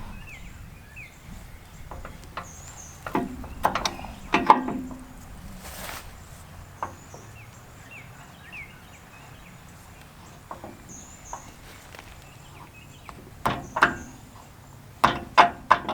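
Scattered knocks and clinks of parts and tools being handled while bolts or shafts are fitted, with a cluster about three to four and a half seconds in and another near the end. Birds chirp faintly in the background.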